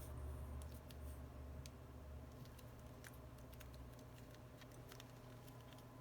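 Faint, scattered light clicks and ticks from small repair tools and parts being handled, over a low steady hum.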